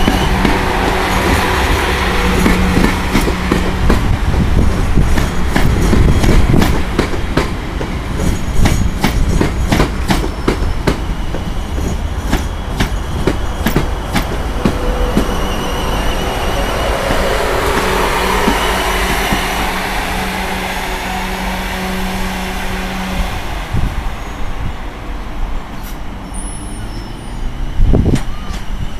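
South West Trains Class 444 Desiro electric multiple unit running into the platform and slowing to a stop: wheels clicking over rail joints, fast at first and then more sparsely, over a steady hum from its traction equipment that fades out near the end. A single loud knock comes about a second before the end.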